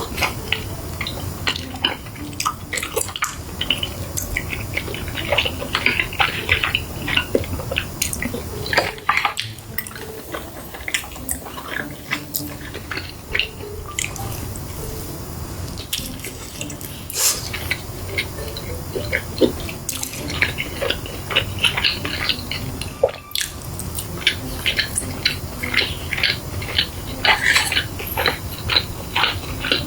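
Close-miked eating sounds: a person chewing and biting food, with many small wet clicks, smacks and crackles.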